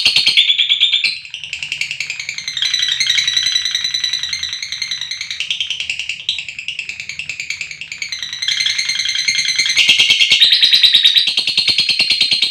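Lovebird giving a long ngekek: a rapid, unbroken high-pitched chattering trill, softer through the middle and louder again near the end.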